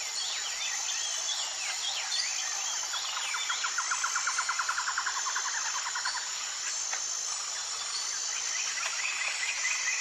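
Tropical rainforest ambience: a steady high insect drone under many short chirping bird calls. Roughly a third of the way in, a rapid pulsing trill runs for about three seconds, and a higher pulsed trill starts near the end.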